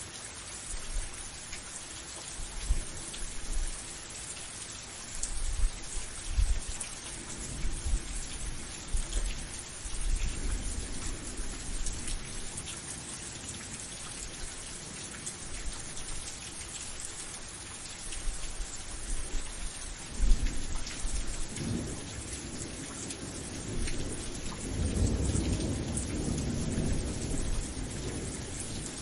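Steady rain falling, with low thunder rumbling several times over it; the longest roll comes near the end.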